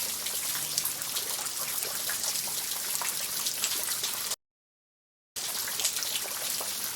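Steady rain falling, an even hiss with many small drop ticks. It cuts out completely for about a second a little past the middle, then resumes.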